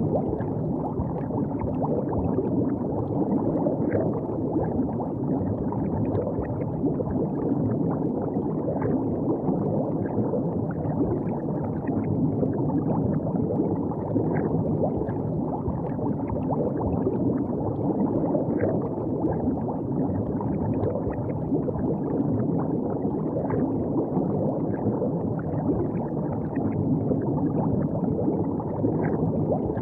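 River water flowing and gurgling steadily, a low rushing sound with small splashes throughout.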